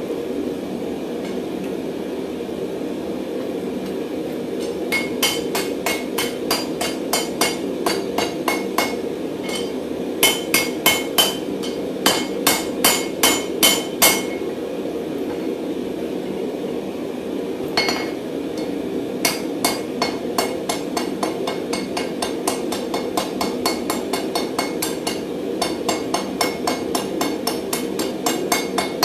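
Hand hammer tapping a twisted mild steel bar on an anvil: light, ringing blows about two to three a second in runs with pauses, straightening the bar gently so as not to damage the twist. A steady low rumble runs underneath.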